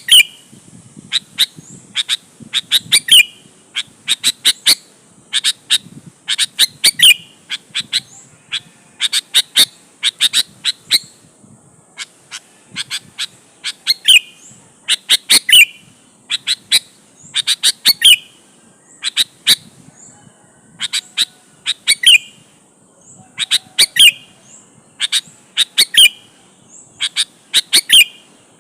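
Sooty-headed bulbul (kutilang) singing energetically in short bursts of sharp notes, a new phrase every second or two.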